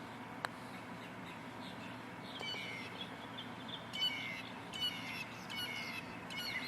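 Wild birds chirping in short repeated calls, which begin about two seconds in, over a steady low background noise. A single sharp click sounds about half a second in.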